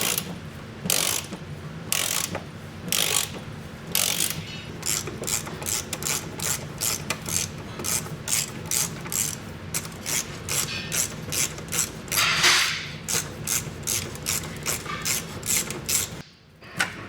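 Hand ratchet wrench clicking while undoing the bolts of a car's underbody fuel pump and filter cradle. The clicks come about once a second at first, then speed up to two or three a second, with a longer rasp about twelve seconds in.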